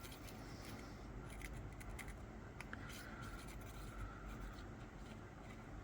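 Faint scratching with light clicks of a steel dental probe dragged along the grooves of freshly carved amalgam in a tooth.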